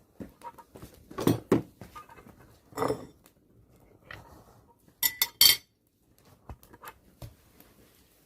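Objects being handled and set down on a hard surface: scattered knocks and clinks, with a quick run of loud, sharp clicks about five seconds in.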